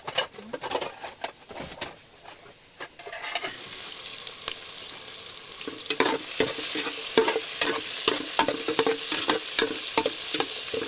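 Food frying and sizzling in a pan while being stirred, with scraping and clinks of a utensil. The sizzle swells up about three seconds in and then runs on steadily.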